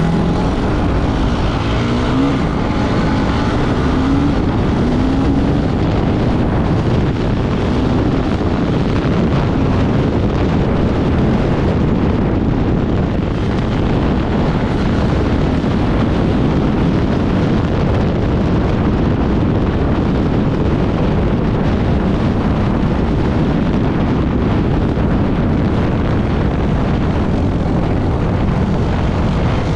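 Off-road vehicle engine running hard under load, with wind buffeting the microphone. In the first few seconds the engine pitch climbs several times, then the engine and wind settle into a steady loud rush.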